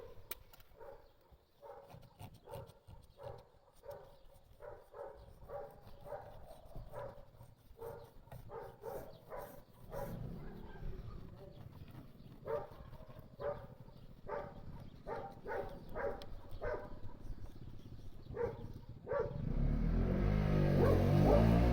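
Dog barking and yelping over and over, in short irregular barks. Near the end a vehicle passes, with a rising then falling rumble.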